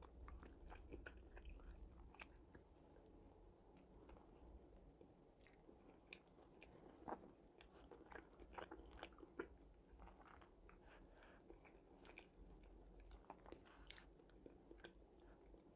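Faint chewing of a mouthful of burger: soft, scattered wet mouth clicks and smacks, a few slightly louder around the middle.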